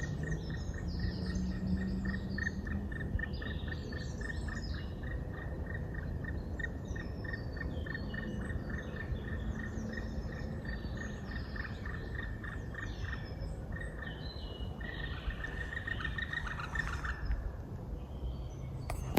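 Woodland bird chorus: several birds singing and calling, with one long series of evenly repeated short notes, about four a second, running through most of it.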